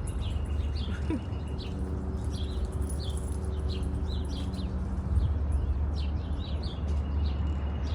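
Small wild birds chirping over and over in short, quick calls, over a steady low rumble.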